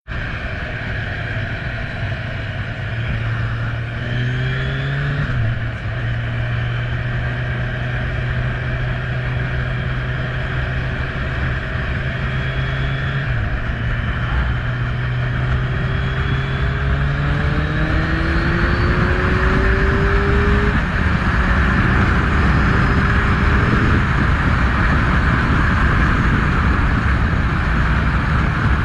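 Kawasaki Z1000's inline-four engine running and being revved lightly. Its pitch rises briefly about four seconds in, then climbs more slowly between about 17 and 21 seconds, and it runs a little louder in the second half.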